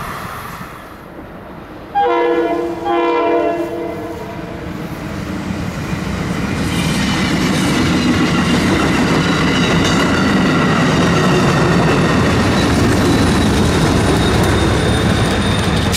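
Two short blasts of a multi-note train horn about two seconds in, then a Shore Line East locomotive-hauled commuter train passing close by, its rumble and wheel clatter building from about six seconds and staying loud.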